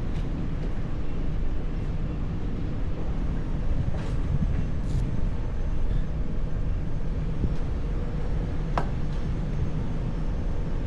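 Suzuki GSX-R motorcycle with an M4 full-system exhaust running with a steady low rumble, with a few brief sharp clicks.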